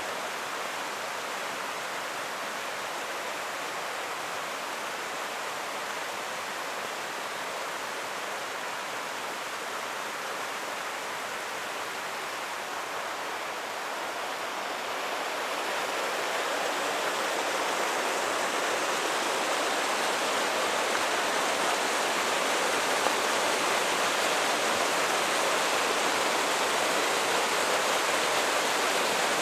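Creek water rushing steadily, growing louder a little past halfway through and then holding at the louder level.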